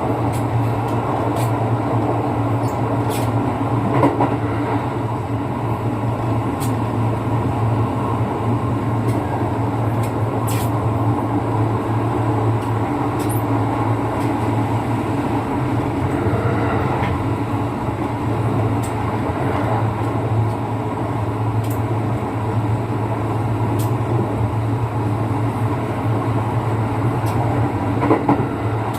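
Running noise inside a Kintetsu 9020-series electric commuter train's passenger car: a steady rumble of wheels on rail with a low hum, and a few faint clicks.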